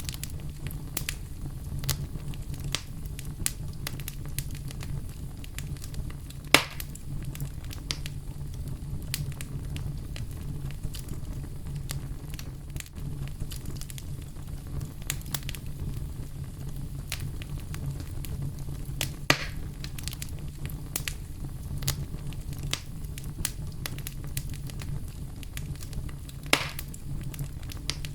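Wood fire burning with a steady low rumble and a constant patter of small crackles, broken by three louder snapping pops spread through.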